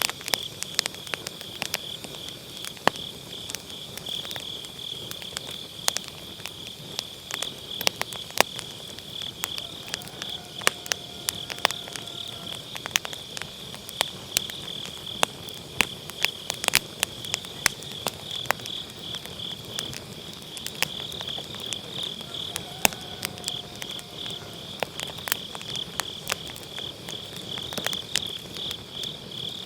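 Wood fire in a round fire pit crackling with irregular sharp pops, over the steady, fast-pulsing high chirping of autumn grass insects.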